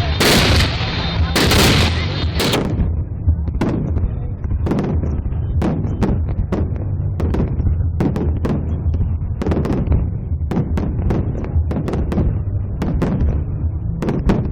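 Fireworks going off: long, loud bursts in the first couple of seconds, then a run of separate sharp bangs at uneven spacing, several close together at times, over a steady low rumble.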